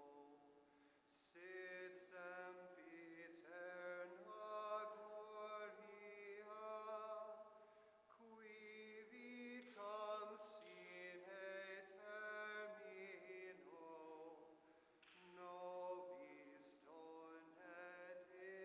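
Faint, slow sung chant: held notes in short phrases that move step by step.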